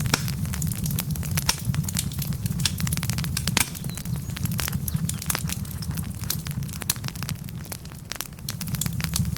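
Wood logs burning in a fireplace: frequent sharp crackles and pops, one louder pop about a third of the way in, over a steady low rumble of the flames.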